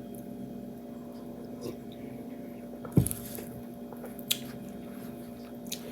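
Sipping iced tea from a cup: faint wet mouth and liquid sounds, with a short knock about three seconds in and a small click a little over a second later, over a steady low hum.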